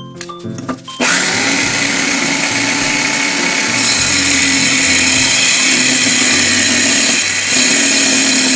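Electric drill powering a homemade drill-driven table saw blade: it spins up with a quick rising whine about a second in, then runs loud and steady, with a brief dip near the end.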